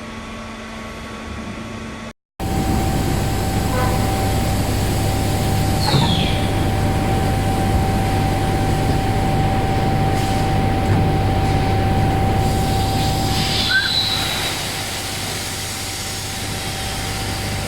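Automatic flaskless green sand moulding machine running: a steady industrial drone with a constant whine and low hum, with short squeals or air hisses about six and fourteen seconds in. The sound drops out briefly about two seconds in.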